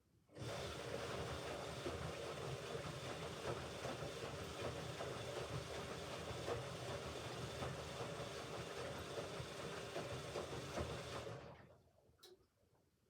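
Hoover Ecologic Computer Washer 1300 washing machine running in its rinse programme: a steady machine-and-water noise starts suddenly, holds for about eleven seconds, then dies away, followed by a single click.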